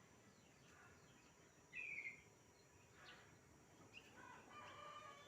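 Faint bird calls: a few short chirps, a brighter one about two seconds in, and near the end a longer, held call that is just beginning.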